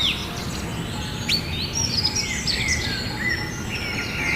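Several small birds chirping and calling: many short notes that slide up and down, overlapping one another, over a steady low background noise.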